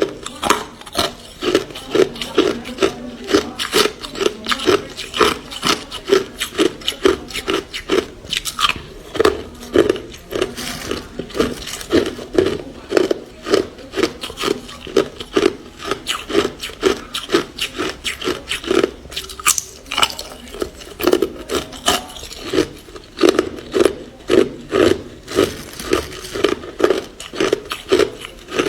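Ice being chewed, a steady run of crunches at about two to three a second.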